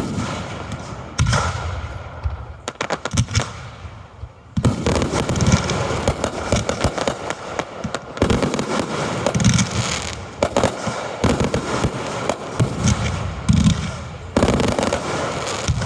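Aerial fireworks shells launching and bursting close by in rapid succession, with many sharp bangs and crackles. After a sharp bang at the start and scattered bursts, the barrage becomes dense and nearly continuous about four and a half seconds in.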